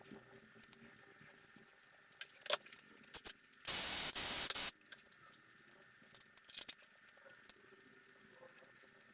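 Tools and engine parts being handled, with scattered light metallic clinks and taps, and a single loud spraying hiss about a second long near the middle.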